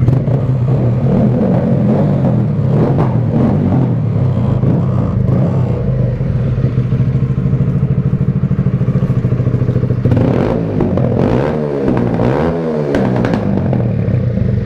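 Motorcycle engine idling steadily, with a brief wavering in its tone around ten seconds in.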